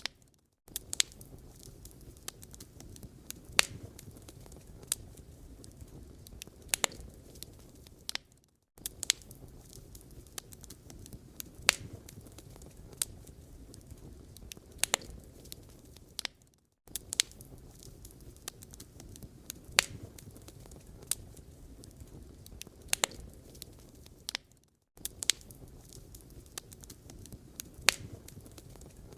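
Wood fire in a fireplace crackling, with scattered sharp pops over a low, steady rumble of burning. The sound cuts out briefly about every eight seconds.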